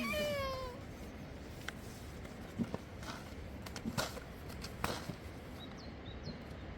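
A child's voice trailing off at the start, then a few scattered light knocks and taps over low background noise.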